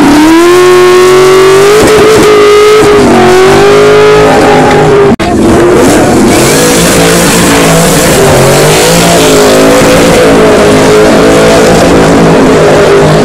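A car engine revving hard during a burnout, its pitch swinging up and down, with the hiss of spinning tyres. The sound breaks off sharply about five seconds in, then the revving and tyre noise pick up again.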